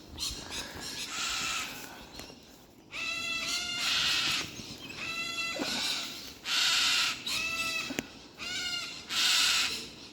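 Cockatoos screeching at an intruder in their tree, a series of harsh, raucous calls repeated over and over from about three seconds in: the birds are agitated by the climber.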